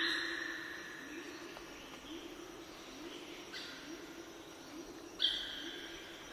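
Birds singing: held whistled notes at a few steady pitches, with a strong new phrase about five seconds in. A short low note repeats about twice a second underneath.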